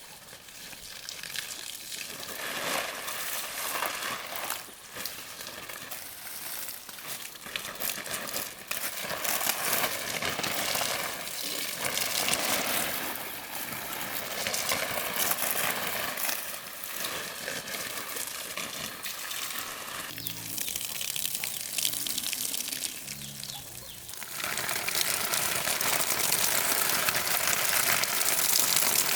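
Water running and splashing, its strength changing, louder from about 24 seconds in.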